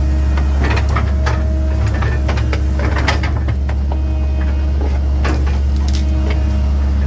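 The diesel engine of a 1997 Link-Belt 2700 excavator running steadily, with many sharp clicks, knocks and creaks over the hum as the machine works.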